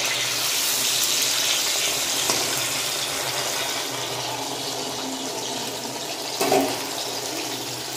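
Spiced ash gourd slices frying in oil in a steel kadai: a steady sizzle that slowly grows quieter. A short louder burst comes about six and a half seconds in.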